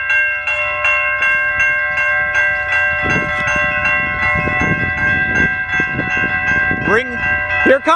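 Railroad crossing electronic bells, among them a Siemens low-pitch e-bell, ringing continuously in rapid repeated strokes. Several bells sound at once. A rumbling noise joins them for a few seconds in the middle.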